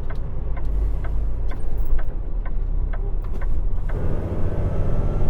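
Semi truck cab: diesel engine rumble with a turn signal ticking about twice a second. About four seconds in, the ticking stops and the engine grows louder and fuller as the truck pulls away.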